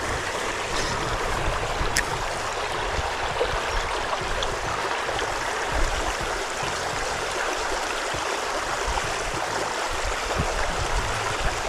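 Creek water running steadily in a continuous rushing hiss.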